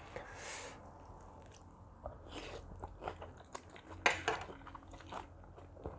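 Close mouth sounds of someone biting and chewing seafood papaya salad, crunching with scattered sharp clicks; the loudest comes about four seconds in.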